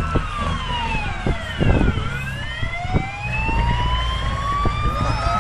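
A wailing siren slowly sweeps down in pitch and then back up, each sweep taking a few seconds, over the steady low hum of an engine.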